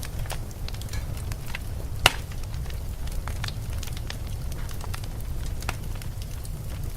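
Wood fire crackling in a fireplace, with irregular snaps and one loud pop about two seconds in, over a steady low rumble of wind.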